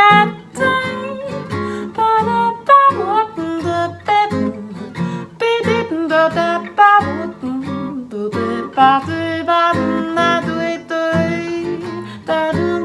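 Guitar playing an instrumental break in a jazz tune, a quick run of plucked notes and chords.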